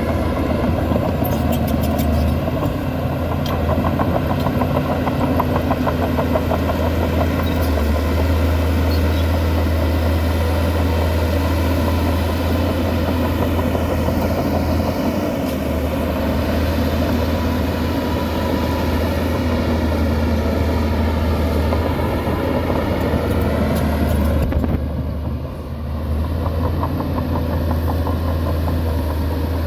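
Heavy diesel engine of a bulldozer running steadily while working, its low drone strengthening and easing several times as the load changes, with a brief drop about 25 seconds in.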